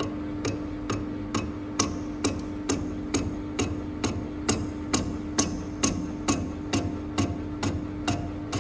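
Lathe turning the end of a hydraulic cylinder rod with a carbide button insert on an interrupted cut: the insert strikes the uneven face once per revolution, an even sharp tick a little over twice a second, over a steady machine hum.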